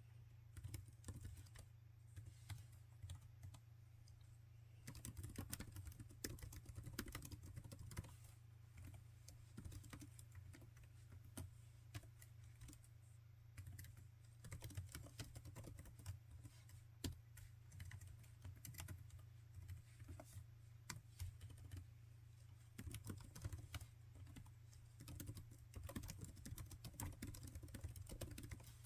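Laptop keyboard typing: runs of quick key clicks. They are sparse for the first few seconds, then keep on densely.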